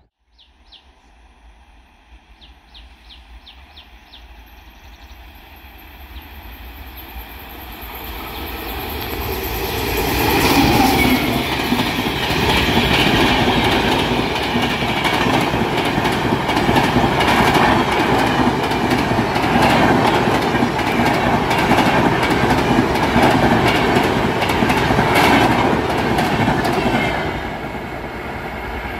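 Indian Railways express passenger train approaching and passing at speed. The rumble builds from about six seconds in, then comes a long loud stretch of rapid wheel clicks over the rails, which eases off near the end.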